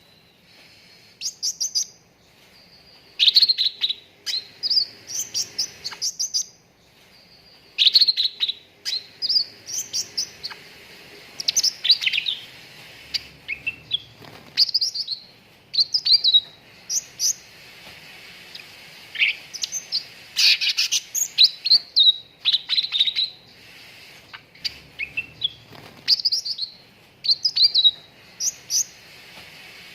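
Cucak ranting songbird singing: quick bursts of high, sharp chirping notes, many sliding downward, delivered in rapid phrases with brief pauses between them.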